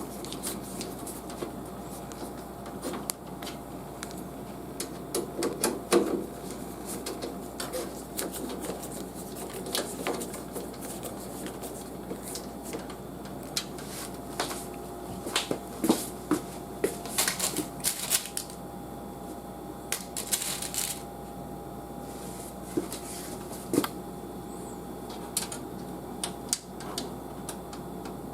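Irregular light clicks, taps and rustles of hands working on a desktop PC's power supply in the computer case, with a couple of brief scraping swishes past the middle.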